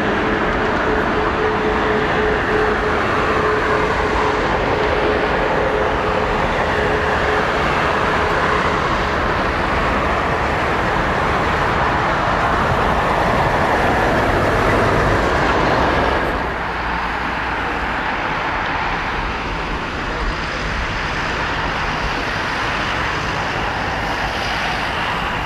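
Jet engines of an Airbus A320neo landing, loud and steady, with a clear engine tone that fades over the first several seconds. The level drops suddenly about 16 seconds in as the aircraft draws away.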